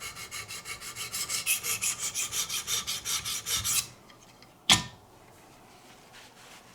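Wicked Edge guided-rod sharpener's 400-grit stones rasping back and forth along a knife edge in quick strokes, about five a second, stopping about four seconds in. A single sharp click follows less than a second later.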